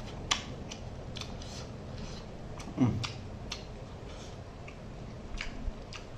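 Close-up chewing of fish curry and rice: a run of sharp wet mouth clicks and smacks, with one louder, brief low throat sound about three seconds in.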